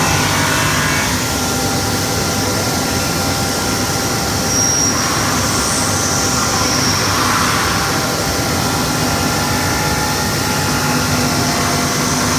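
CNC glass-cutting machine and its workshop machinery running: a steady mechanical noise with faint steady whines above it.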